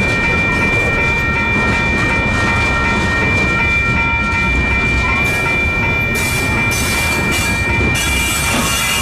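Union Pacific freight train rolling through a grade crossing: a steady rumble and wheel clatter, with the crossing's electronic bells ringing over it. A high wheel squeal starts to come in near the end.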